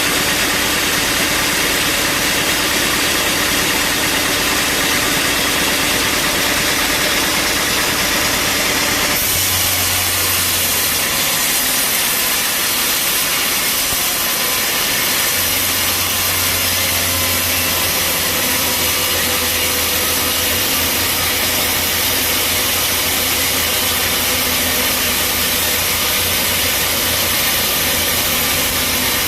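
Bandsaw sawmill machinery running loud and steady, a dense mechanical noise with a motor hum underneath. About nine seconds in the sound changes: it turns brighter and hissier, and a low steady hum comes in.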